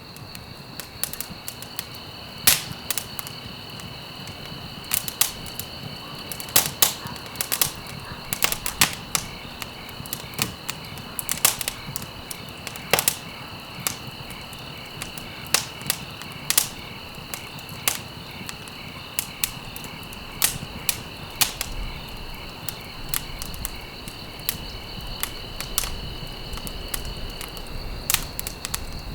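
Campfire crackling: irregular sharp pops and snaps of burning wood over a low steady hiss, with two steady high-pitched trills in the background, one of which stops near the end.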